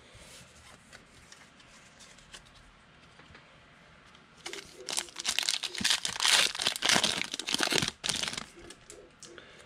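A foil trading card pack wrapper being torn open and crinkled by hand, a dense run of crackling that starts about halfway through and stops about a second before the end.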